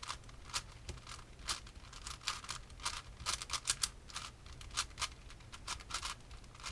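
Sheng Shou 6x6 puzzle cube being turned quickly by hand: an irregular run of sharp plastic clicks and clacks, several a second, as its layers snap round.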